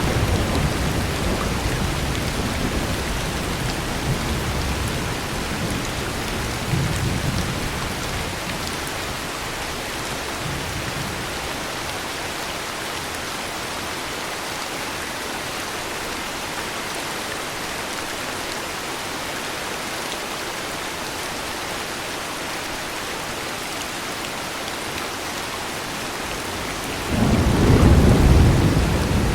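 Heavy rain falling steadily, with low rolling thunder over the first several seconds that dies away, then a louder peal of thunder breaking in suddenly near the end.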